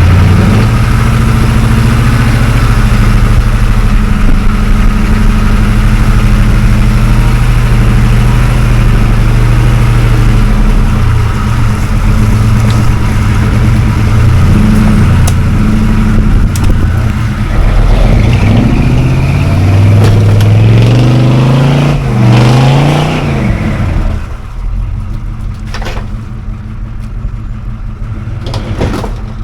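Off-road vehicle's engine working under load as it crawls over an obstacle, revving up in rising surges about two-thirds of the way through, then easing off near the end.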